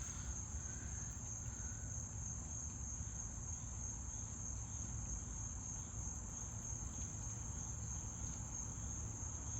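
A steady, unbroken high-pitched chorus of crickets, with a low rumble underneath.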